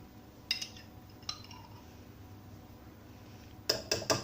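Kitchen utensil clinking against cookware while Schezwan chutney is being added to a wok: two single clinks early, then a quick run of several clinks near the end.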